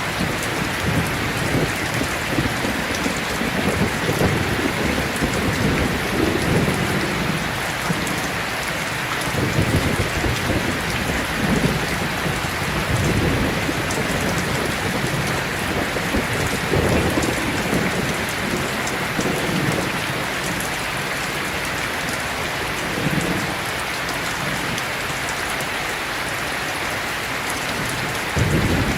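Heavy rain falling steadily, with low rumbles of thunder rising and fading every few seconds.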